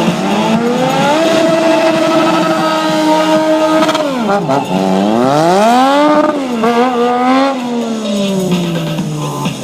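Stunt vehicle's engine revving hard: it climbs and holds high, drops away about four seconds in, revs up again to a peak, then winds slowly down. This is the warm-up of tyres and brakes before a stunt.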